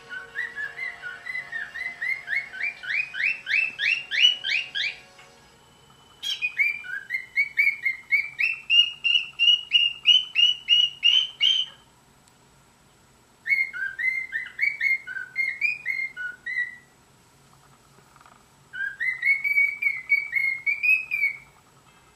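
Cockatiel singing: four phrases of quick, repeated whistled notes with short pauses between them, the first phrase climbing in pitch.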